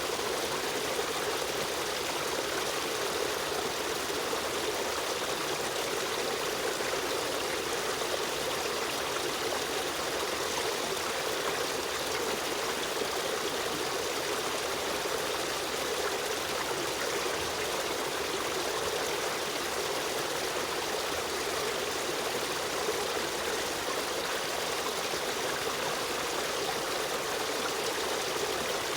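Stream water running over rocks, a steady, unbroken rushing and trickling.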